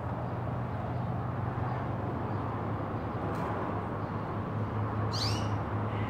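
A small bird gives one short chirp of two or three arched high notes about five seconds in, over a steady low background rumble.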